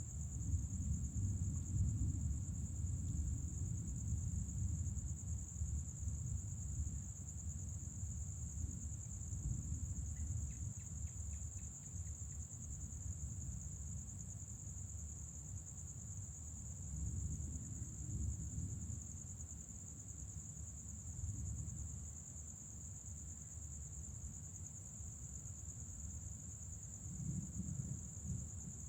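Crickets trilling in a steady, unbroken high-pitched chorus, over low rumbles of distant thunder that swell and fade, strongest at the start and near the end. A short run of faint chirps about ten seconds in.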